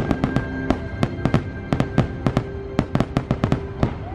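Fireworks going off in a rapid, irregular string of sharp bangs, about five a second, over the show's music holding a sustained chord.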